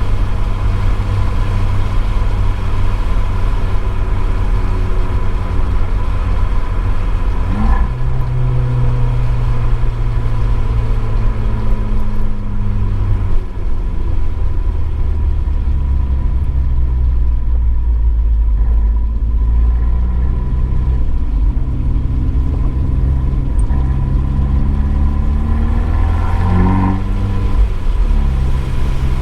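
Abarth 595 Esseesse's turbocharged four-cylinder engine, heard through its Akrapovič exhaust, running hard on track. Its pitch climbs and drops with the gear changes.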